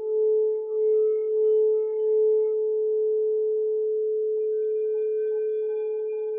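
Singing bowl ringing in a long sustained tone that pulses in a slow wobble, then settles; about four seconds in a second, lower-pitched bowl joins with its own ringing overtones.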